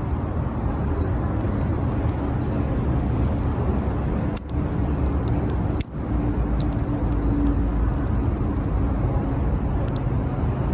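Bonfire burning with scattered sharp crackles and pops over a steady low rumble. The sound drops out for an instant twice, near the middle.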